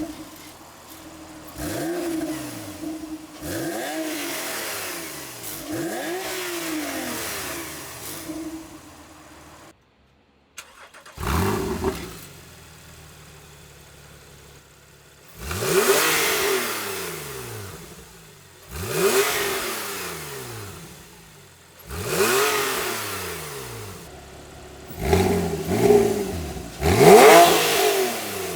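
Porsche 997 Carrera GTS flat-six engine blipped repeatedly from idle, each rev rising and falling back, through a SharkWerks straight-through X-pipe exhaust that replaces the center muffler. After a brief cut about ten seconds in, the revs are louder and sharper.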